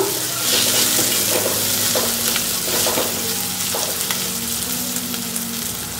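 Corn kernels and onions sizzling in hot oil in a stainless steel pan, stirred with a wooden spatula that scrapes and taps against the pan now and then.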